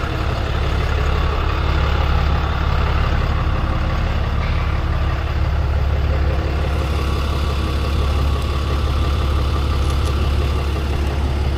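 Tow truck's engine idling steadily, a constant low hum with no revving.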